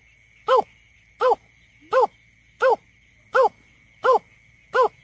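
Greater painted-snipe giving its hooting call: a steady series of short, hollow hoots, seven in a row about 0.7 s apart, each rising and then falling in pitch.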